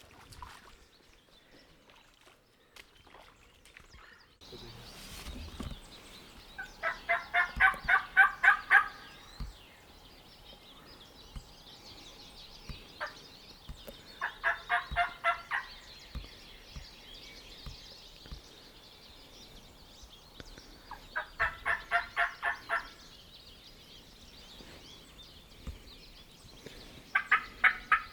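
Wild turkey gobbler gobbling four times, each gobble a rapid rattling burst about two seconds long, roughly seven seconds apart; the first is the loudest.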